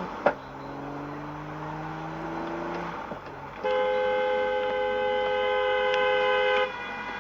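A car engine runs with its pitch slowly rising, broken by one sharp, loud bang just after the start. About halfway through, a two-tone car horn blares steadily for about three seconds, then stops abruptly.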